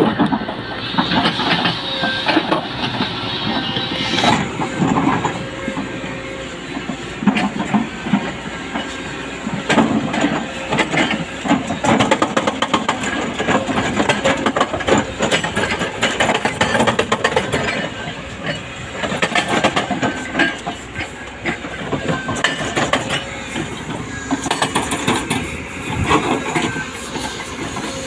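Kobelco excavator's hydraulic breaker hammering on rock: many sharp, irregular knocks and clanks over the excavator's running diesel engine.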